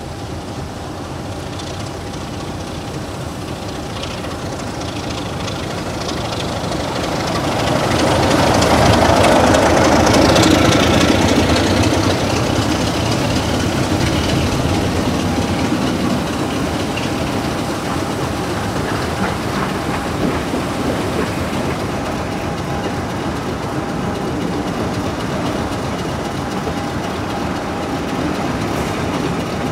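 Diesel train passing on a heritage line: the engine and the wheels on the rails build to their loudest about eight to twelve seconds in, then the train keeps rolling by steadily.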